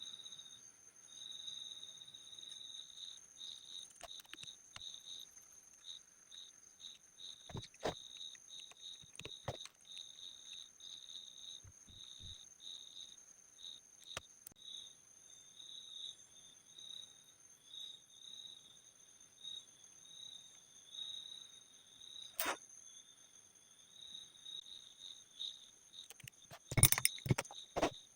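A faint, steady, high-pitched pulsing chirp, like insects, runs under scattered soft clicks. Near the end comes a short cluster of louder clicks and clatter.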